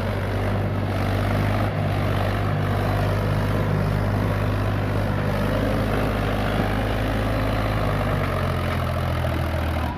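Eicher 555 tractor's diesel engine running steadily at a constant speed, with the sound cutting off suddenly at the end.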